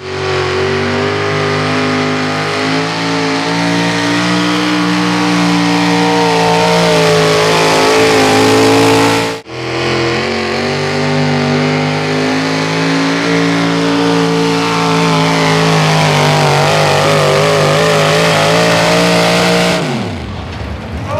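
Modified 4x4 pulling truck's 650-cubic-inch naturally aspirated engine running loud at high, fairly steady revs. There are two stretches, with an abrupt break about nine seconds in, and it stops shortly before the end.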